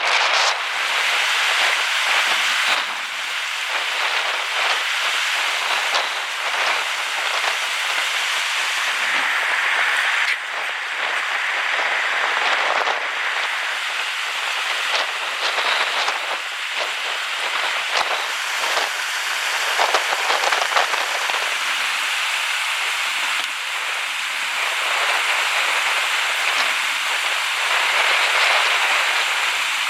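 Steady hiss of rain and running water, with scattered sharp taps.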